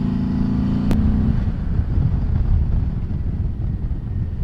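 Turbocharged Harley-Davidson Milwaukee-Eight 107 V-twin running steadily under way with wind rush. About a second in there is a sharp click, after which the steady engine note gives way to a rougher low rumble of wind and road.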